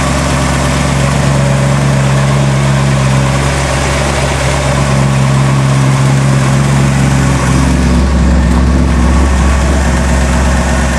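Chevrolet 327 cubic-inch V8 idling steadily soon after a start, with a faint tick from one hydraulic lifter that is almost gone. The lifter chatters until the oil pressure builds up, and then it quietens down.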